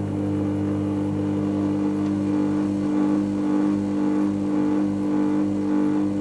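Dyson Contrarotator CR01 washing machine running mid-cycle, its motor giving a steady, even-pitched hum with the drum turning at a constant speed.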